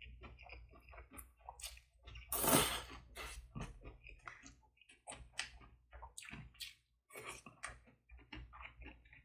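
Close-miked eating sounds: wet chewing, lip smacks and small clicks in quick irregular succession, with one louder noisy burst about two and a half seconds in.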